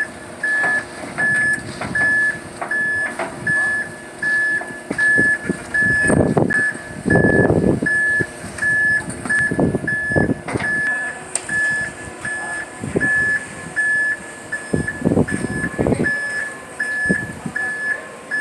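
A vehicle reversing alarm beeping steadily, a little under two beeps a second, with several louder rough noises around the middle and again near the end.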